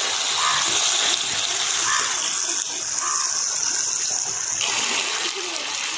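Marinated chicken and its liquid sizzling in hot oil and spice paste in a pan: a steady frying hiss, with a few faint knocks of stirring.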